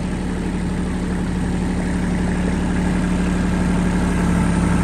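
Tractor engine running steadily at a low, even idle, growing slightly louder toward the end.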